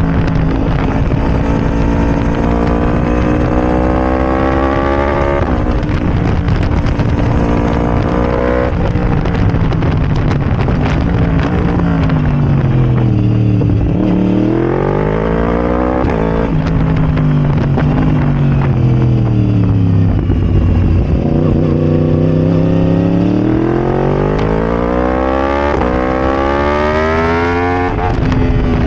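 Yamaha R1's crossplane inline-four through a decatted Arrow Racing exhaust, accelerating through the gears while riding: the revs climb and drop at an upshift twice in the first nine seconds. They then fall and rise several times as the bike slows and pulls again, ending in a long climb in pitch near the end.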